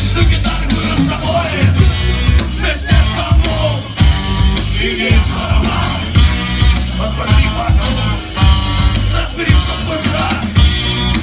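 Live punk rock band playing loud and fast, with a heavy bass and drum beat and a singer's shouted vocals.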